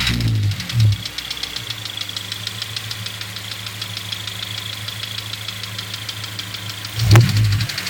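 Honda S2000's four-cylinder engine idling with a fast, even ticking over the steady hum, a noise the owner places near the intake manifold and cannot explain. A couple of brief louder low bumps come near the start and near the end.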